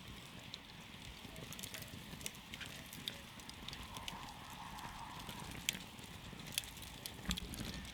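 Wood campfire burning, crackling with irregular sharp pops over a steady low rustle of the flames.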